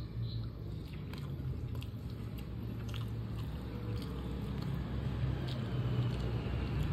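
Close-up eating sounds: chewing chicken kottu, with scattered small wet clicks from the mouth and from fingers working the food, over a steady low hum.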